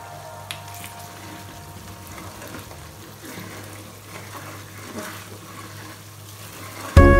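Thick chilli-and-oil chicken pickle mixture bubbling and sizzling in a metal pot, with a spatula stirring and scraping through it in the second half. Loud music starts near the end.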